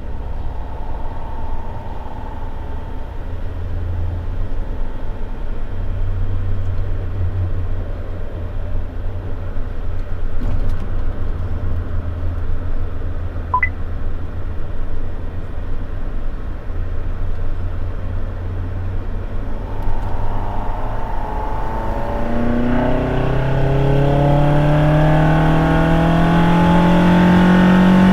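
Toyota AE86 Sprinter Trueno's 4A-GE four-cylinder engine and road noise while cruising on the highway: a steady low drone at first. About two-thirds of the way through, the engine note rises steadily as the car accelerates.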